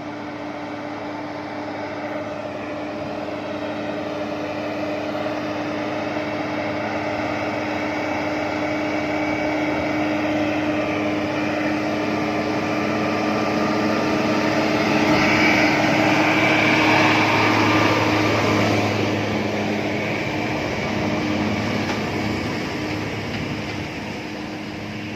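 Heavy diesel container truck climbing a mountain grade, its engine drone swelling as it approaches, loudest about two-thirds of the way through, then fading as it passes.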